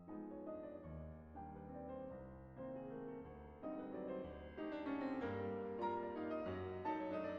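Background piano music: a melody in separate notes over low bass notes, growing louder about halfway through.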